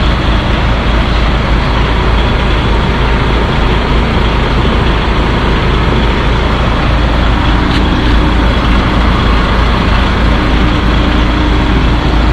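DAF heavy truck running steadily: a continuous engine rumble with road noise.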